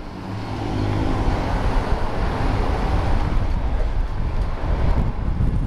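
Yamaha FZ1's inline-four engine running under way, with wind rushing over the chin-mounted GoPro's microphone; the engine and wind noise build over the first second as the bike gets moving, then hold steady.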